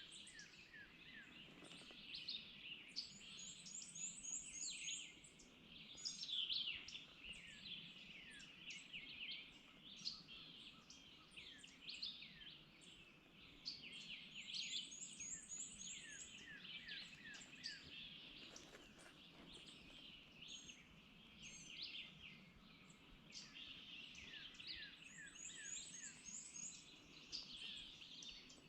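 A faint chorus of small songbirds, with many short sweeping chirps and whistles overlapping. A high, thin, rapid trill phrase comes three times, about eleven seconds apart, over a low steady background hush.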